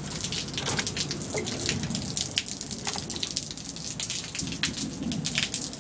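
Light rain falling, with individual drops hitting close by as irregular sharp taps over a steady hiss.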